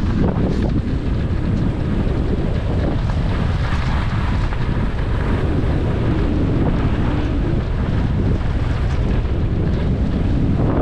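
Wind rushing and buffeting the microphone of a skier going downhill, with the steady hiss and scrape of skis sliding and turning on thin, hard early-season snow.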